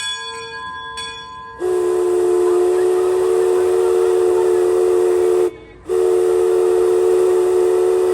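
Mark Twain Riverboat's steam whistle blowing two long two-note blasts, with a hiss of steam, the first about four seconds long and the second shorter after a brief break. Two short ringing strikes come just before it.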